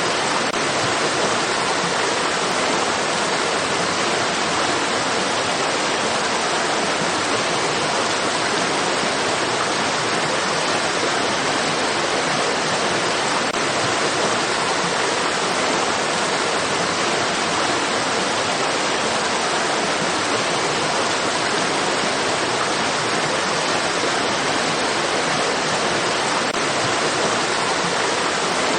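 Steady rushing water of a stream: an even, unbroken hiss that does not change.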